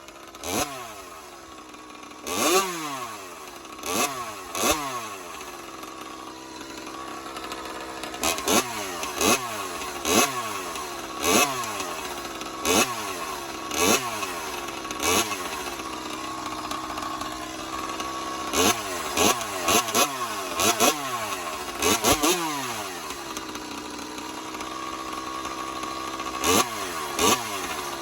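Small two-stroke CPI scooter engine with a racing expansion-chamber exhaust, idling and blipped by the throttle about twenty times, each rev shooting up and dropping straight back to idle, the blips coming singly or in quick clusters.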